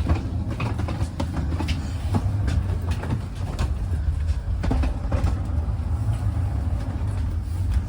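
Rumble inside a passenger train carriage: a steady low drone with scattered clicks and knocks.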